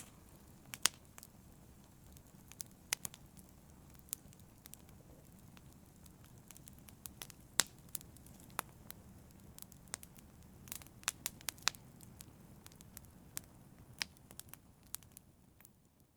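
Open fire crackling: irregular sharp pops and snaps, sometimes several in quick succession, over a soft steady rumble of the flames. It fades out at the very end.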